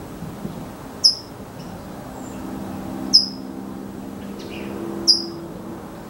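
A bird gives three sharp, high chip calls, about two seconds apart, over a steady low hum.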